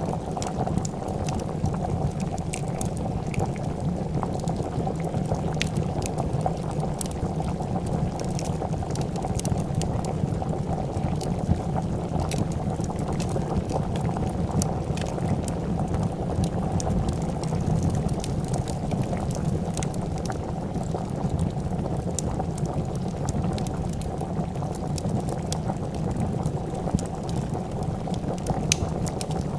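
A pot of soup boiling with steady bubbling, with scattered pops and crackles of a wood fire.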